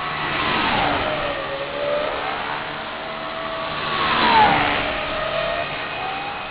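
Align T-Rex 250 SE electric RC helicopter flying past, its motor and rotor whine sweeping down in pitch and back up twice, the second pass louder.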